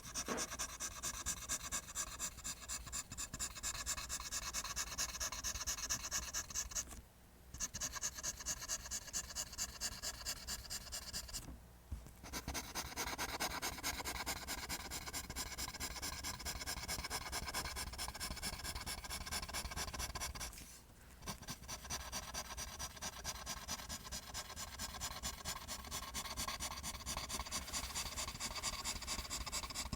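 Graphite pencil drawing lines on paper in quick, continuous scratching strokes, stopping briefly three times.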